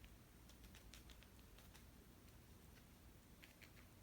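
Faint, irregular light ticks, several a second, of a small paintbrush dabbing white paint onto paper.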